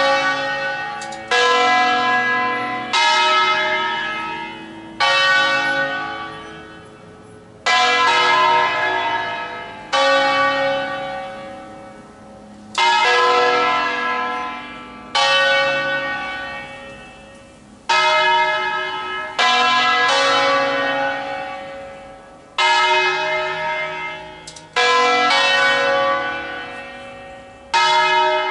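Large church bells from a 1953 Angelo Ottolina set, struck one at a time about every two to two and a half seconds, the strokes alternating in pitch. Each stroke rings out and fades before the next: a slow office toll of the largest bells.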